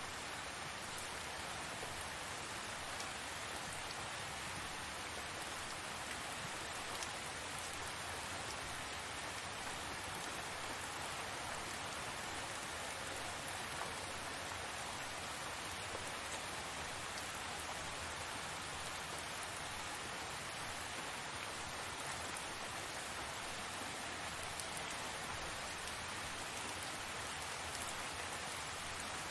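Steady tropical rain falling, an even hiss with scattered faint ticks of drops.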